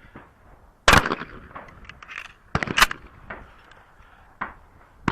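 Two shotgun shots at trap clays, about two seconds apart, each with a short echo, followed by a few light clicks.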